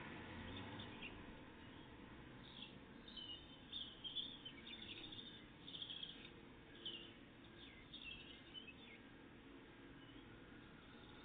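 Faint songbird song: a run of short high chirps and trills from about two seconds in until about nine seconds in.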